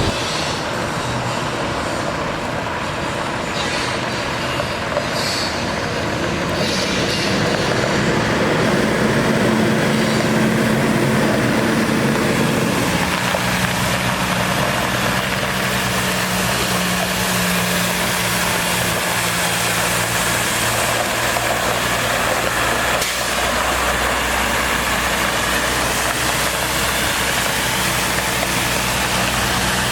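Cummins ISC inline-six diesel of a water truck running at raised idle while driving its PTO water pump, with a steady hiss of water from the spray heads. About 13 seconds in the engine speed drops a little and then holds.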